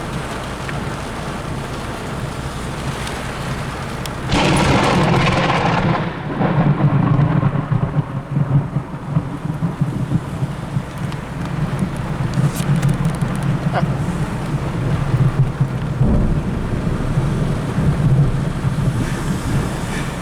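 Thunder over steady rain: a sharp, loud thunderclap crashes in about four seconds in, then rolls on as a long, uneven low rumble, with a further thump near the end.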